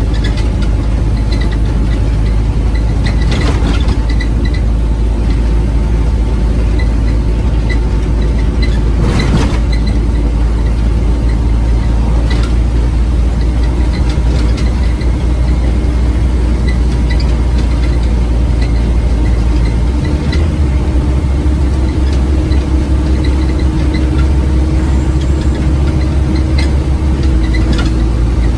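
Scania OmniCity bus heard from on board: the diesel engine runs steadily with a deep rumble, and a few sharp rattles or knocks come from the bus body.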